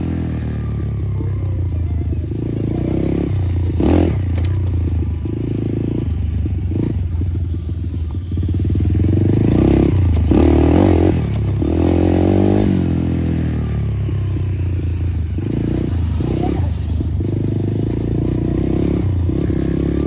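Dirt bike engine running, revved up and let back down a few times.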